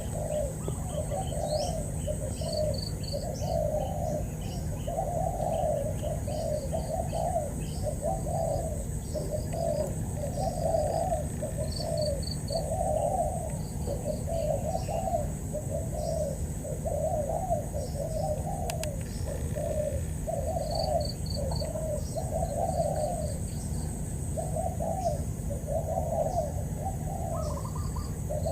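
Spotted doves cooing in a continuous series of low notes, roughly one a second. Small birds chirp faintly.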